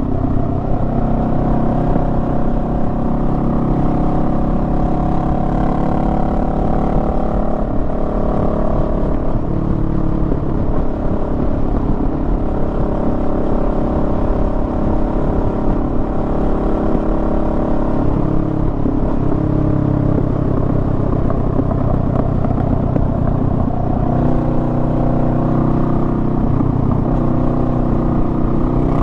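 Honda Rebel 500's parallel-twin engine running under way, its note rising and falling with throttle and gear changes, heard from the rider's position.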